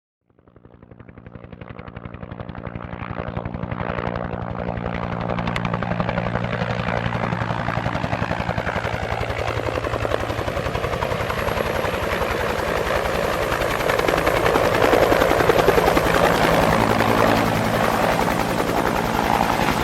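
Helicopter sound effect: rapid, even rotor chop over a steady engine drone, swelling from nothing over the first few seconds, then running steadily and growing somewhat louder in the second half.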